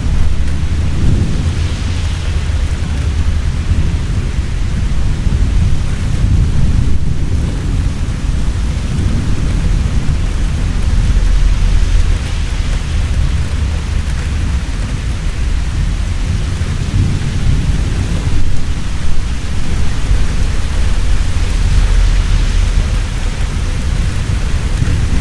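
Heavy rain falling steadily with low, rolling thunder rumbling under it, swelling several times.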